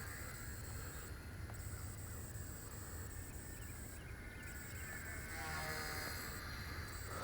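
Small Wltoys V977 RC helicopter in flight: a faint, steady motor-and-rotor whine whose pitch glides and swells as it flies past, loudest a little past halfway.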